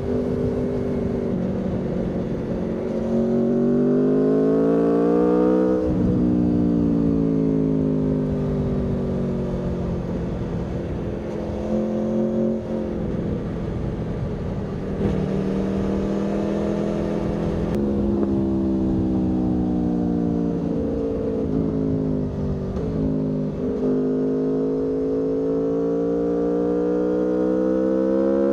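2023 Aprilia Tuono V4's V4 engine pulling hard through the gears: the pitch climbs, drops sharply at a shift, then falls away as the throttle is rolled off, and climbs again, three times over, with steady wind rush underneath.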